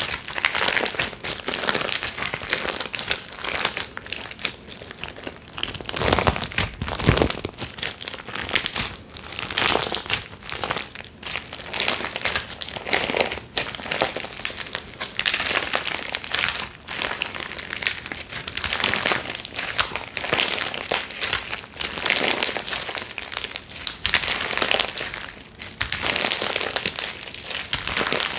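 Hands squishing and poking slime, giving a dense, continuous stream of crackling, popping clicks that swell and ease off irregularly.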